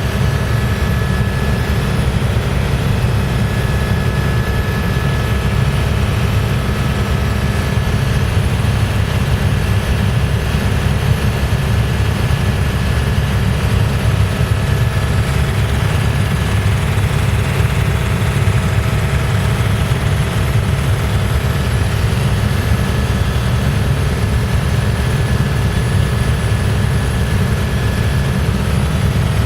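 Helicopter in flight heard from inside the cabin: a steady, loud low rotor and engine drone, with faint steady high tones running above it.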